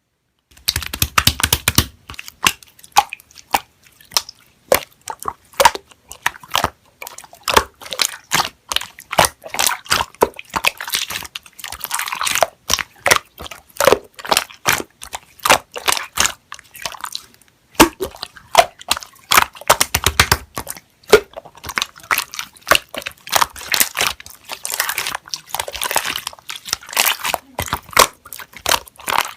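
Slime being squeezed and pressed by hand, giving a dense, irregular run of wet clicks, pops and crackles.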